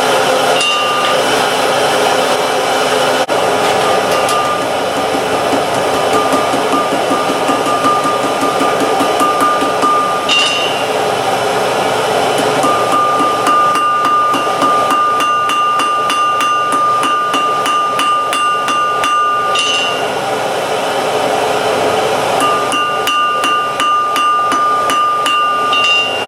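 Blacksmith's hammer striking hot steel on an anvil in a long run of rapid, steady blows, the anvil ringing between strikes. A steady rush of air from the forge blower runs underneath.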